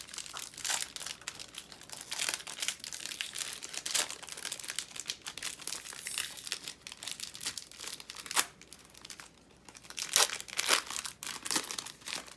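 Foil wrapper of a Pokémon TCG Shining Fates booster pack crinkling and tearing as it is opened by hand, with several louder, sharper crackles near the end.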